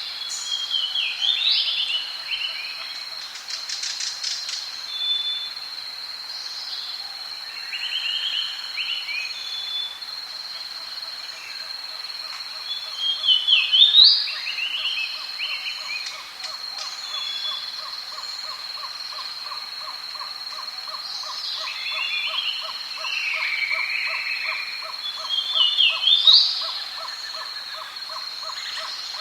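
Rainforest soundscape: birds calling in short phrases that sweep up in pitch, the loudest about halfway through and again near the end. Underneath runs a steady high-pitched insect drone, joined about halfway through by an even, rapid pulsing call.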